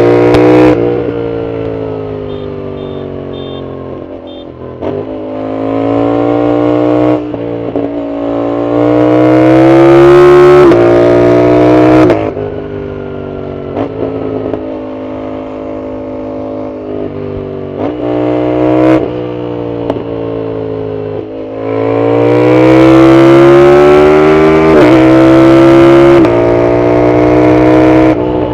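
Yamaha MT-07's parallel-twin engine through a loud aftermarket full exhaust, pulling hard in rising pitch, with sharp breaks at the gear changes, then easing off to a lower, steadier run between pulls. Two long full-throttle pulls stand out, one a few seconds in and one near the end.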